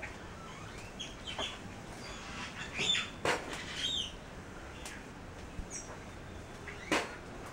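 Small birds chirping intermittently, in short high calls. There are a few brief crackles around the middle and a sharp snap near the end.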